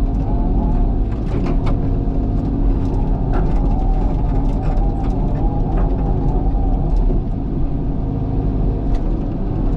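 Cat excavator's diesel engine running steadily under working load, with scattered short knocks and clunks from the machine at work.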